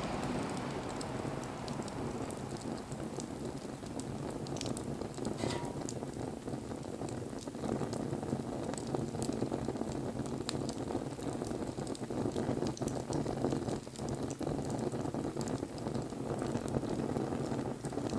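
Wood bonfire burning: a steady rushing hiss from the flames with scattered sharp crackles and pops from the wood.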